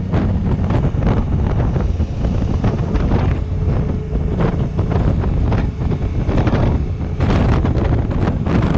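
Heavy wind buffeting on the microphone of a moving Honda African Twin motorcycle, in irregular gusts, with the bike's engine and road noise running low underneath.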